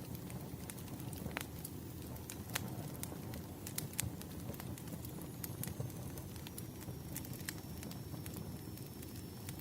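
Wood fire crackling, with irregular sharp pops and snaps over a steady low rumble of the flames. A faint thin high whistle comes in about halfway through and holds.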